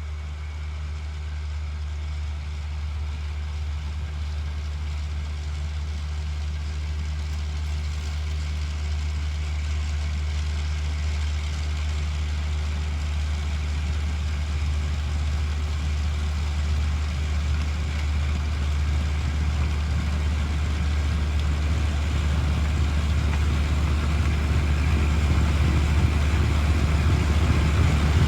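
John Deere 1025R compact tractor's three-cylinder diesel engine running steadily, growing gradually louder.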